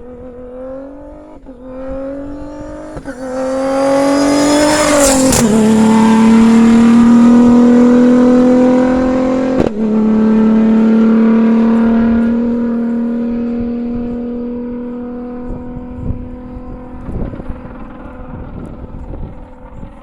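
Rally-raid car engine accelerating hard through several gears as it comes in, passing at full throttle at a steady high pitch, then fading into the distance.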